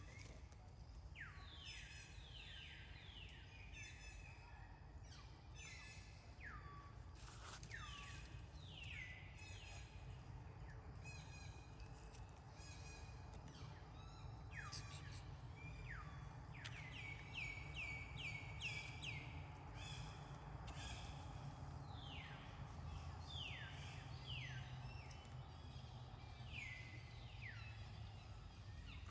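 Birds calling faintly: short high notes, each falling in pitch, repeated in quick runs of several, over a low steady rumble.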